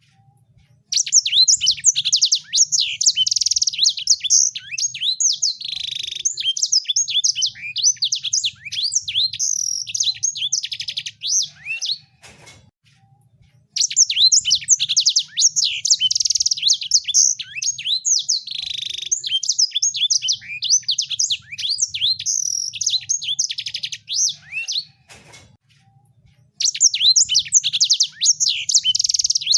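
Songbird singing in long runs of rapid, high chirps and twitters, broken by two short pauses, about twelve seconds apart. It is a bird-song track of the kind played to prompt caged birds to sing.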